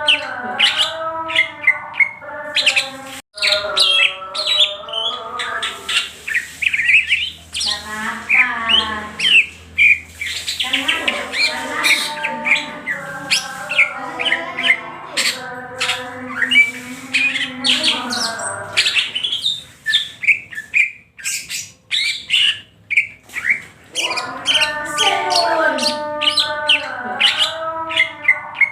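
Green leafbird (cucak hijau) singing continuously: a fast, varied stream of chirps, whistles and gliding notes with hardly a pause.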